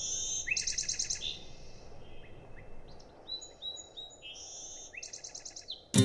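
Songbirds singing: high whistled notes and a fast buzzy trill, the phrase heard near the start and again near the end, with shorter notes between.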